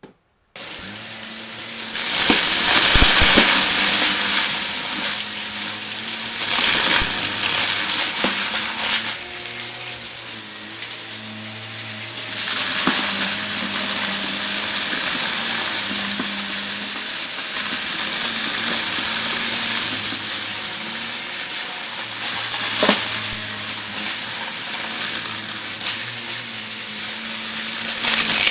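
Vacuum cleaner switching on about half a second in and running, its motor humming under a loud hiss as it sucks up crunchy debris that crackles and rattles through the nozzle.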